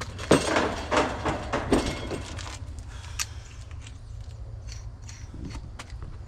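Hand work on equipment: a few sharp clicks and knocks in the first three seconds, then quieter handling, over a steady low hum.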